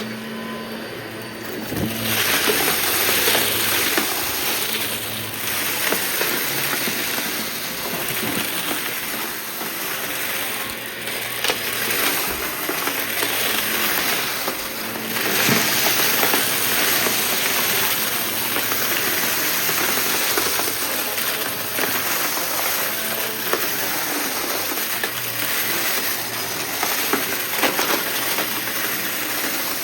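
Vacuum cleaner running steadily with a high whine while picking up scattered debris, which crackles and clicks as it is sucked in.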